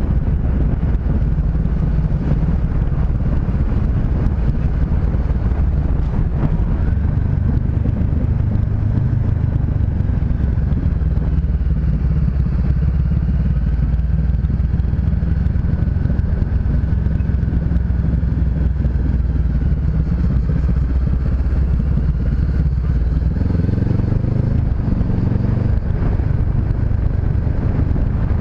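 Honda CB500X parallel-twin engine running steadily while riding, with wind noise on the microphone; the engine pitch rises near the end as it accelerates.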